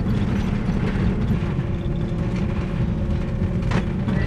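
Van driving on the road: a steady low rumble of engine and road noise, with a brief click near the end.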